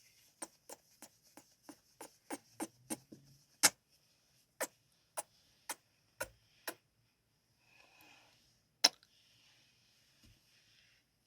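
Close-miked ASMR kissing sounds: a quick run of sharp lip smacks, about three a second, then slower single kisses about half a second apart. Two of the kisses are much louder, and soft breathy noise fills the gaps.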